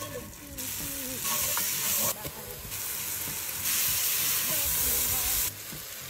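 Chopped leeks sizzling in hot oil and butter in a pot as a wooden spoon stirs them. The sizzle comes up loud about half a second in, is loudest around the middle, and drops back near the end.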